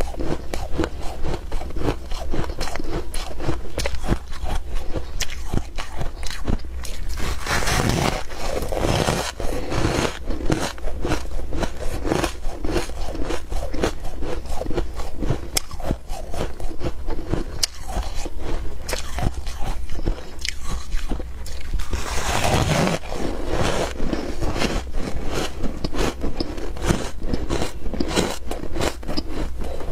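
A person chewing and crunching mouthfuls of humidifier ice close to the microphone, with dense, rapid crunches throughout. There are two louder spells, about eight seconds in and again a little past twenty seconds.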